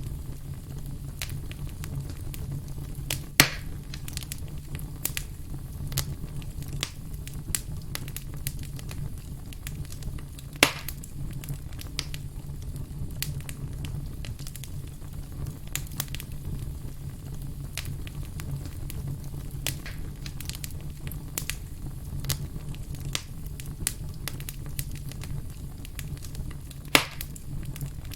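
Campfire crackling steadily over a low rumble, with many small snaps and three louder pops spread through it.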